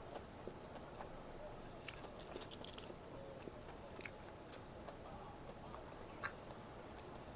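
Close-up eating: a crunchy bite into battered fried food, with a quick run of crackling crunches about two seconds in, then quieter chewing broken by a couple of single crunches.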